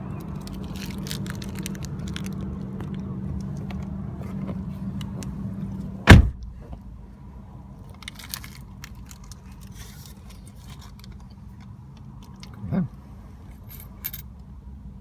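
Steady low hum of a running vehicle engine, then a loud single thump about six seconds in, after which the hum is much quieter; a smaller knock follows about thirteen seconds in, with a few light clicks.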